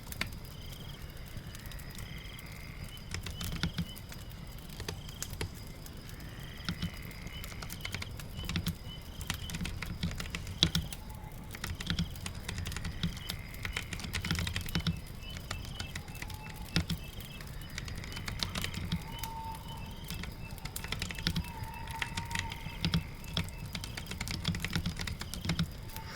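Irregular clicking of computer keyboard typing over a steady soft bed of rain. Birds chirp at the same time, with short rising calls repeating every few seconds and quick trilling notes.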